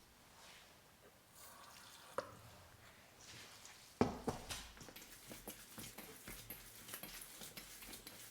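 Water added to a hot pan of sautéed onion and tomato, hissing and then crackling and sizzling from a sharp start about halfway through.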